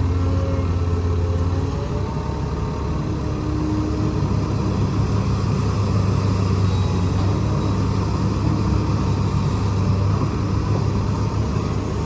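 Heavy construction machine's diesel engine running steadily, its pitch shifting slightly a couple of times.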